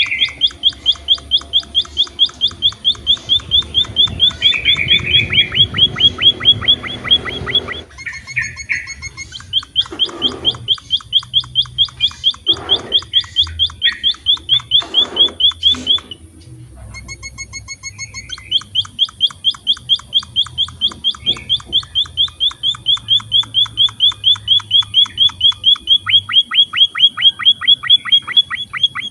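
A small munia finch (emprit) singing: long runs of fast, evenly repeated high notes, each a short rising sweep, about five a second. The song breaks off briefly around eight seconds and again for a couple of seconds past the middle, then resumes.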